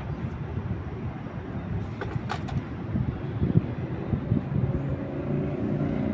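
Urban street ambience: a steady rumble of city traffic, with wind buffeting the microphone. A brief sharp hiss comes about two seconds in, and a faint engine hum rises near the end.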